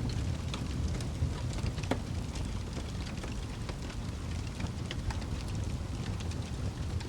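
Wood fire burning in a fireplace: a steady low rumble of the flames with frequent irregular crackles and pops, one sharper pop about two seconds in.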